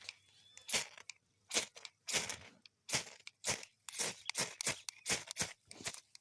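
Flint fire striker being scraped hard again and again to throw sparks onto tinder: about a dozen short, sharp, raspy strokes, coming faster in the second half.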